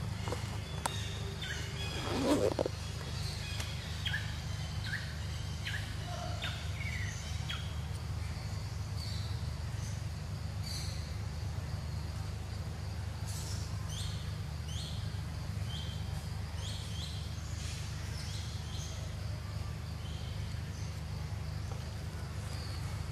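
Outdoor ambience of birds chirping in short, scattered falling calls over a steady low rumble. There is one brief louder sound about two seconds in.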